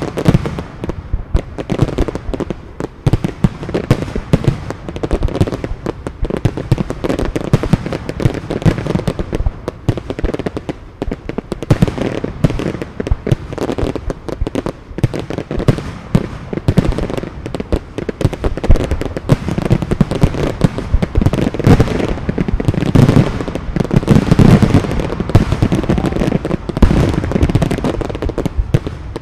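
Fireworks display: a dense, unbroken barrage of bangs and pops from aerial shells, several a second, heaviest in the latter part.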